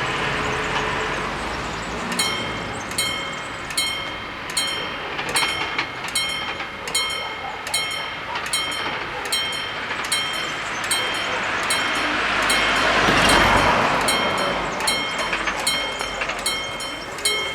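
Level crossing warning bells start ringing about two seconds in: steady, evenly repeated metallic strikes, each with a ringing tone. Around thirteen seconds in, a rushing noise swells and fades.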